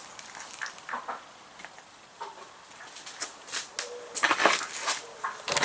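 Tools and engine parts being handled on a workbench: scattered clicks and knocks, with a brief burst of clattering about four seconds in.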